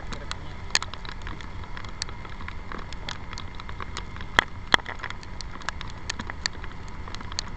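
Raindrops ticking sharply on a handlebar-mounted camera on a moving Yamaha motorbike in the rain, with two louder hits about four and a half seconds in. Under them runs a steady low rumble of wind, engine and tyres on the wet road.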